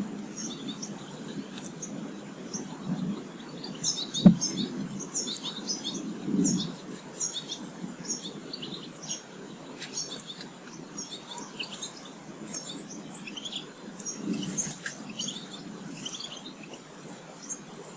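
Small garden birds chirping and twittering at feeders, many short high calls overlapping, with one sharp tap about four seconds in.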